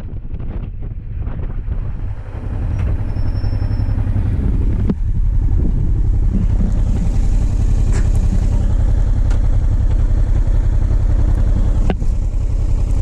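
Motorcycle engine running, rising over the first few seconds and then holding steady.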